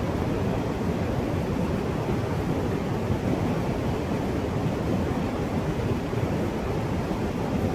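Steady rush of river water running over a waterfall, an even noise that holds at one level throughout.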